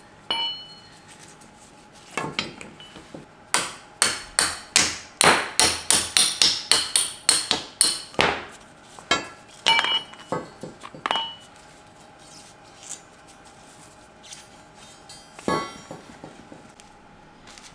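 Hammer blows on the rusted steel front suspension parts: a quick run of more than a dozen strikes, some with a short metallic ring, then a few spaced blows and one last strike near the end.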